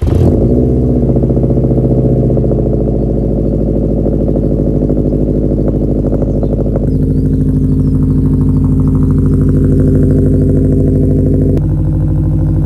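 2011 Subaru WRX STI's turbocharged 2.5-litre flat-four, started from cold: it fires suddenly and settles into a loud, steady fast idle. The idle note shifts about seven seconds in and again shortly before the end.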